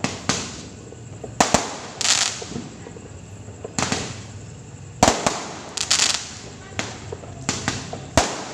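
Fireworks going off in an irregular series of sharp bangs, about a dozen in all, some coming in quick pairs.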